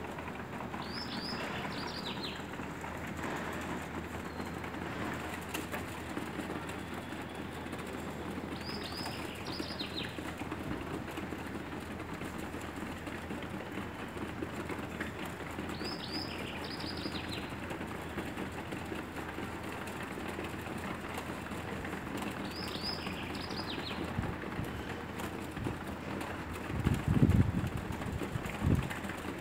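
A bird calling a short phrase of a few quick, high, falling notes, repeated four times about seven seconds apart, over a steady background hiss. Near the end there are a couple of louder low thumps.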